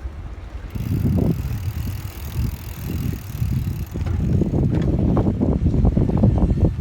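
Bicycle riding noise picked up by a hand-held phone: wind on the microphone and rolling rumble from the tyres and frame, turning into a denser run of bumps and rattles about four seconds in.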